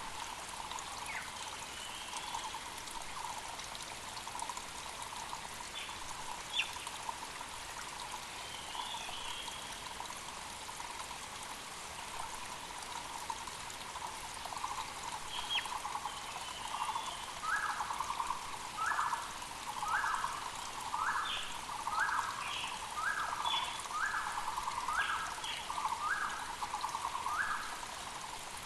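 Mountain creek flowing steadily, with birds calling over it. A Muller's barbet repeats a low call, which turns into a steady run of loud notes a little more than once a second in the second half, while other birds give short high notes.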